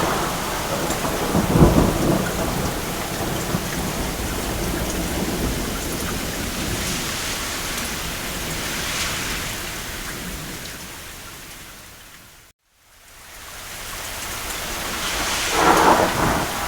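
Steady rain on a roof with thunder, a loud low thunder rumble about a second and a half in and another swell near the end. About three quarters of the way through the rain fades out to a moment of silence and fades back in.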